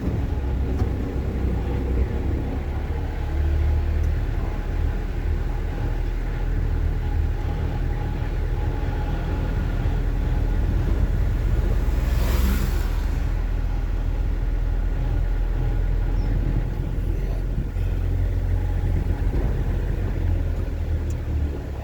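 Engine and road rumble of a manual vehicle driving along in second gear, heard from inside the cabin, with a brief hiss about halfway through.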